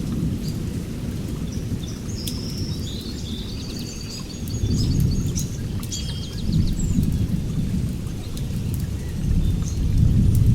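Small birds chirping and trilling over steady rain, with scattered drop ticks and a low rumble that swells several times. The birdsong is busiest from about two to seven seconds in.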